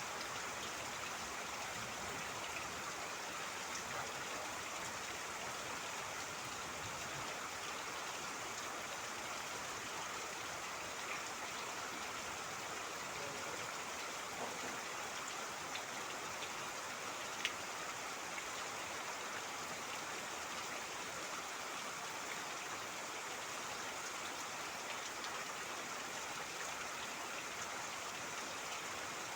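Steady rain with trickling water, an even hiss with scattered faint drop ticks and one sharper tick about halfway through.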